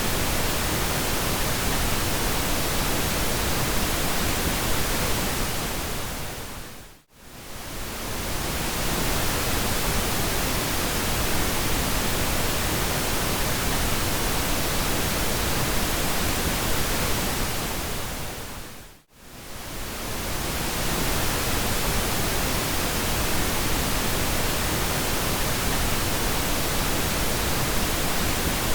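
Steady pink noise, an even hiss across the whole range. It dips briefly to near silence and fades back twice, about seven seconds in and again about twelve seconds later.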